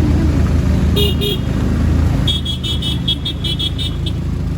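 Road vehicle engine running with a steady low rumble while a horn sounds: two short toots about a second in, then a quick run of about ten short beeps from about halfway through.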